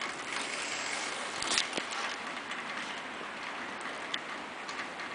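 Heavy wet snow falling and pattering on surfaces: a steady hiss with scattered small ticks and taps, and one louder tick about one and a half seconds in.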